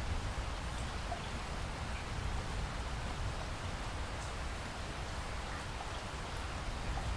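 Steady rain falling: an even hiss with a low rumble underneath and a few scattered drops standing out.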